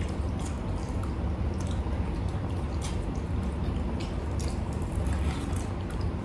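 Close-up eating sounds: wet chewing, lip smacks and small mouth clicks, many in quick succession. Under them runs a steady low hum from an air conditioner.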